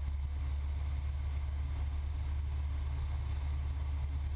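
Cessna 172's piston engine and propeller in cruise flight, a steady low drone with no change in pitch.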